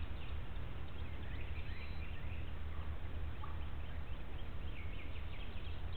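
Birds chirping faintly and repeatedly over a steady low rumble.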